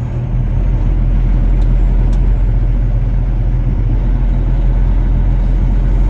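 Steady engine and road noise heard from inside a moving vehicle's cab while driving: a low, even hum that grows slightly louder about half a second in.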